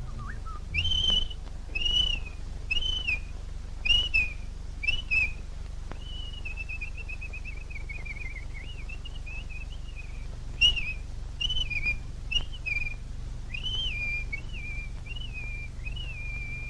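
Bird-like whistling: short rising-and-falling whistled notes about once a second, a warbling trill in the middle, more short notes, then a long held note that slides down at the end, over a steady low soundtrack hum.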